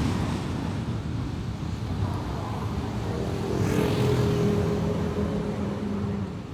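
Car being driven: steady low road and engine rumble, with a brief louder rushing swell about four seconds in.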